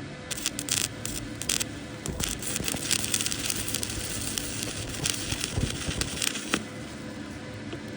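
Arc welding: a few short crackling bursts as the arc is struck, then a steady crackle lasting about five seconds that stops sharply near the end. A steady low hum runs underneath.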